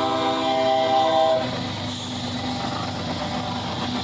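Train horn sounding one steady multi-note chord, cutting off about a second and a half in, over the continuous low rumble of a train's engine.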